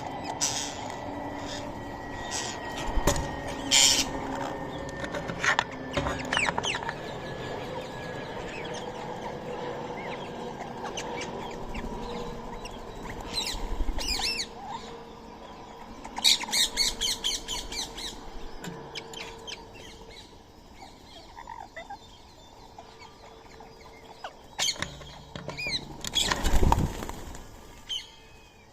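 Birds chirping and calling in short, scattered bursts, including a quick run of rapid chirps midway and a louder burst near the end.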